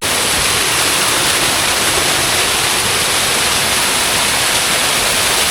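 Waterfall pouring close by: a loud, steady rush of falling water that starts abruptly at the beginning and holds evenly throughout.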